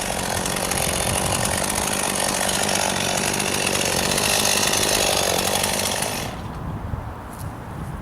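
Chainsaw running at full throttle, cutting into a juniper trunk, then dropping off sharply about six seconds in.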